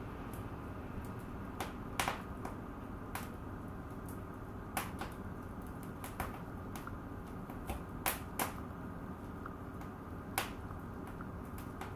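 Fire burning in a fireplace: irregular sharp crackles and pops over a steady low rush of flame, a pair of louder pops about two-thirds of the way through.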